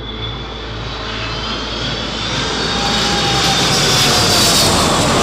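Boeing 777 on final approach, its twin turbofan engines growing louder as it nears, with a high whine that glides slightly down in pitch.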